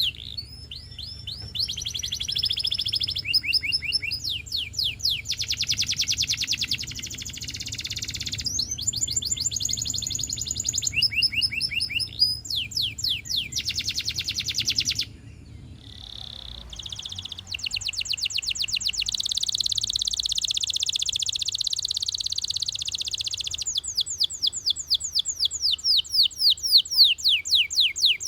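Russian canary singing a long song of rapid trills, each a fast run of identical notes repeated several times before switching to the next. There is a short break about halfway through, after which it resumes with a buzzier, denser trill.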